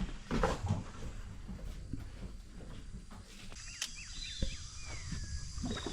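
Amazon rainforest ambience: a steady high-pitched insect drone sets in about halfway, with a few whistled bird calls gliding in pitch over it and scattered soft knocks.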